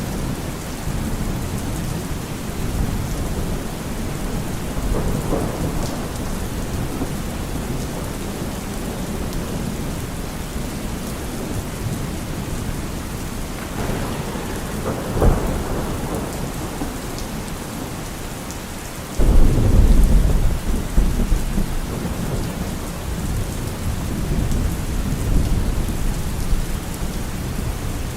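Steady heavy rain with rolling thunder. There is a short sharp crack about 15 seconds in, then a sudden loud thunderclap about 19 seconds in that rumbles on and fades.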